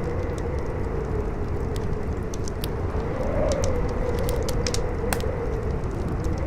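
Campfire crackling with frequent sharp pops, over a strong howling wind whose tone wavers, rising and falling, above a steady low rumble.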